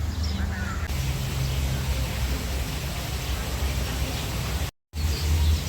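Steady outdoor noise: an even hiss over a fluctuating low rumble, with a brief total dropout near the end.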